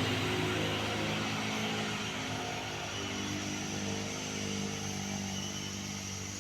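A vehicle engine running steadily, its sound slowly fading.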